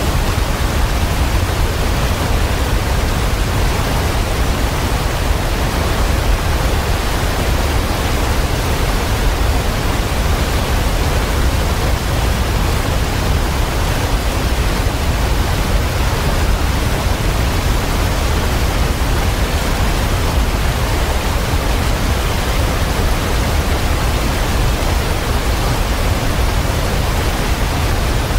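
Waterfall pouring, a steady, unbroken rushing of water, heaviest in the low rumble.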